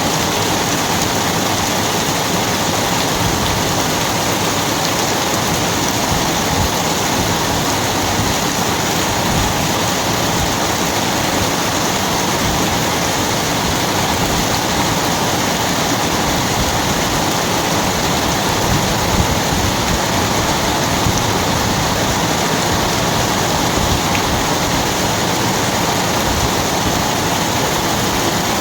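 Steady heavy rain: a dense, even hiss of falling water that holds unchanged throughout.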